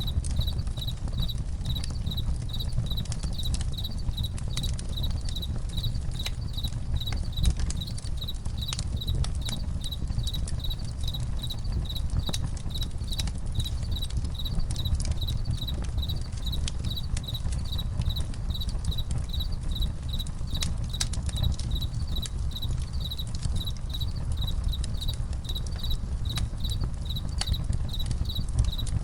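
Campfire crackling with scattered sharp pops over a low rumble, while crickets chirp in a steady, even rhythm.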